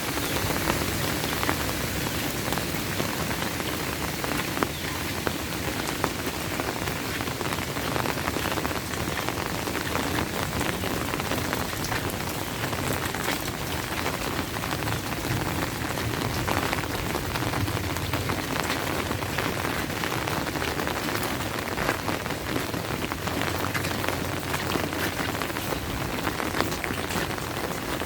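Steady rain falling, with many close individual drops ticking through a constant hiss.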